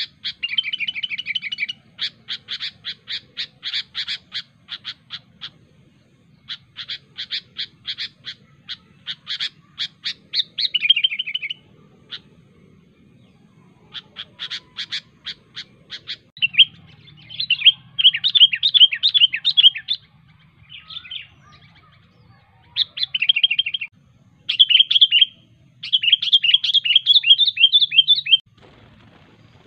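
Sooty-headed bulbul (kutilang) calling: runs of short, sharp notes repeated several times a second, broken by brief pauses.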